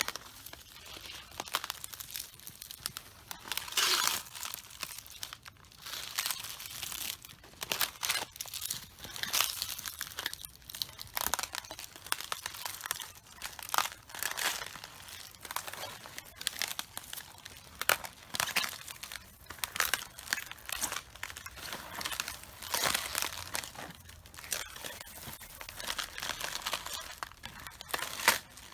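Feet stepping on raw cabbages, crushing them: the leaves crackle, crunch and split underfoot in uneven clusters of crisp crackles about every second.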